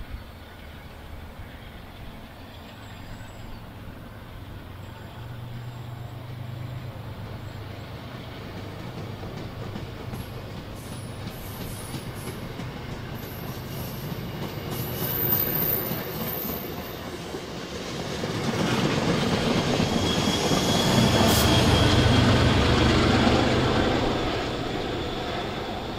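MBTA commuter trains passing: a low diesel hum and rolling steel wheels on rail as bilevel coaches go by. Later, louder, an MPI HSP46 diesel-electric locomotive passes close with a heavy rumble and a brief wheel squeal, then eases away.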